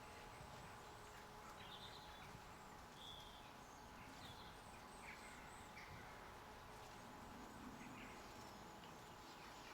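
Faint, scattered chirps and short calls of small garden birds over quiet outdoor background, with a faint steady hum underneath.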